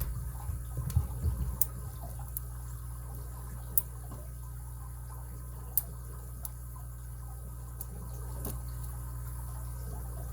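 Lock picking on a rebuilt 5-pin American brass padlock: faint, scattered metallic ticks as the pick works the pins under heavy tension, over a steady low hum, with some handling noise in the first couple of seconds.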